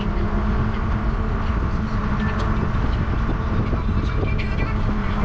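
Wind buffeting the microphone of a camera riding along on a moving bicycle, a steady rumbling rush, with a steady low hum underneath.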